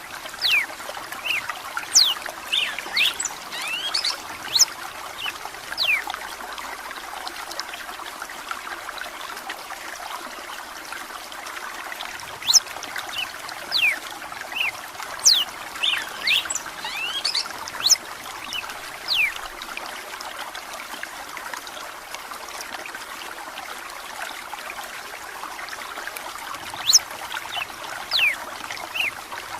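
Running water trickling steadily under spells of song from a red-cowled cardinal (galo de campina): quick, sharp whistled notes that mostly fall in pitch. The song comes in bursts near the start, in the middle and near the end, with only the water between them.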